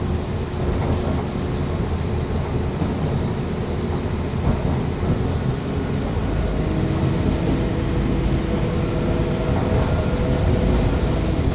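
Steady rumble of a moving train heard from inside the carriage, with a faint steady whine joining about halfway through.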